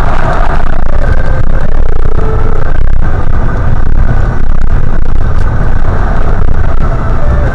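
Car driving, with a loud, steady low rumble of road and engine noise.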